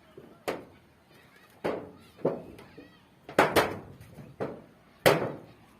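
A series of sharp knocks or bangs, about seven of them at uneven intervals, each ringing on briefly, with faint high chirping in between.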